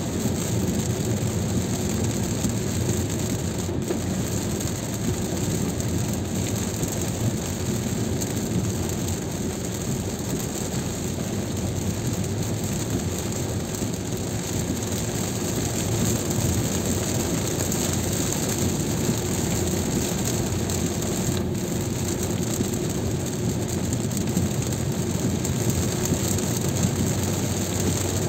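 Steady noise of a car driving on a highway in heavy rain: tyres hissing on the wet road and rain on the car, with a low rumble of road and engine.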